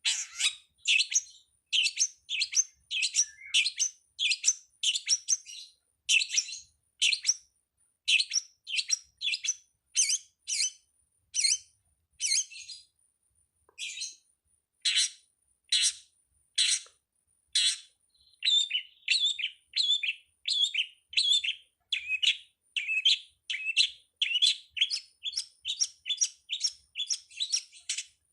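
Long-tailed shrike (pentet) calling in a steady string of short, sharp chirps, one or two a second, with a brief pause about midway. A faint thin high tone runs behind the calls.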